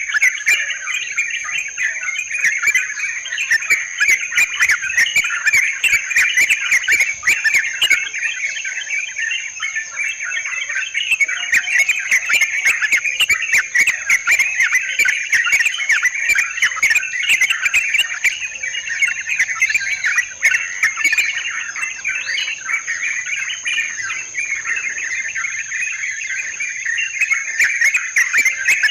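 Yellow-vented bulbuls (trucukan) chattering continuously in a dense, busy flock chorus, played as a bird-lure recording. A steady high-pitched whine runs underneath, and bursts of sharp clicks come in the first third and again near the end.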